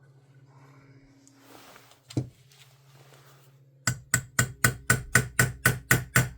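Small hammer tapping a pin punch to drive a roll pin into an airsoft rifle's receiver: one tap about two seconds in, then a quick even run of about eleven taps, roughly four a second. A faint low hum runs underneath beforehand.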